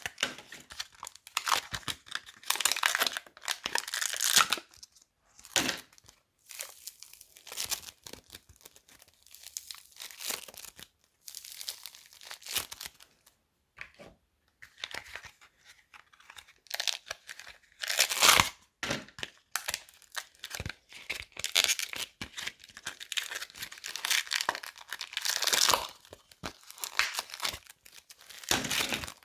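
Crinkling, crackling and tearing from hands handling crunchy slime materials, in irregular bursts with short pauses between them.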